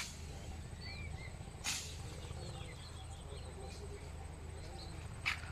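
Small birds chirping in short, quick calls over a low steady hum, with two brief rustling bursts, one early and one near the end.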